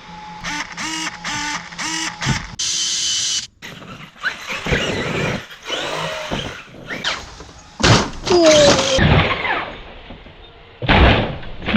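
Giant electric RC car: five quick whirring bursts with rising pitch in the first two seconds, then its electric motor whining in repeated throttle bursts that rise and fall in pitch.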